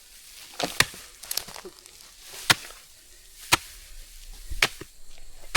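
Sharp chopping strikes about once a second, four loud ones with a few lighter knocks between them.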